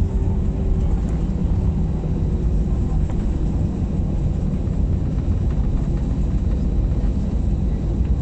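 Airliner cabin noise during landing: a steady low rumble of the engines and airframe heard from a passenger seat.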